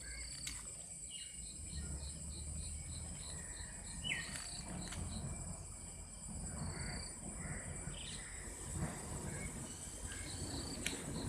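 Steady, high-pitched drone of insects with birds calling over it: a run of short, evenly spaced high notes, about four a second, in the first few seconds, then scattered chirps, one falling note and a few single taps.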